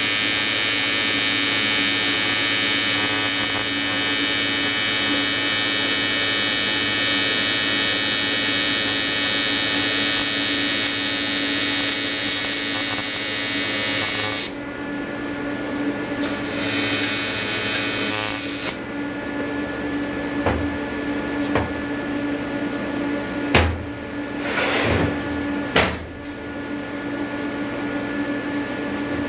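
AC square-wave TIG welding arc from an Everlast 325EXT welder buzzing steadily on an intercooler. It cuts off about halfway through, buzzes again for a couple of seconds, then stops. After that a steady hum remains, with a few short clicks and knocks.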